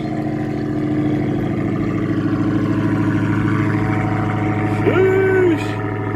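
Dodge Charger Hellcat's supercharged 6.2-litre V8 running at a fast cold-start idle just after firing up, steady and loud. About five seconds in, a person calls out briefly over it.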